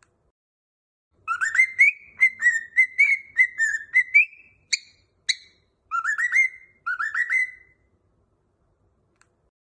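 Cockatiel whistling a song. A quick run of whistled notes starts a little over a second in, two sharp chirps come near the middle, and two short rising phrases follow.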